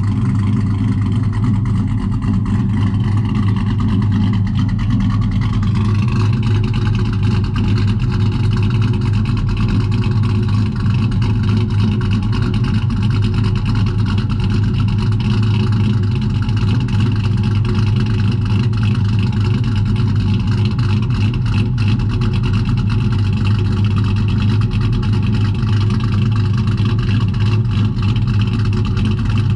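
Pickup truck engine running steadily while driving, with a slight rise in pitch about six seconds in.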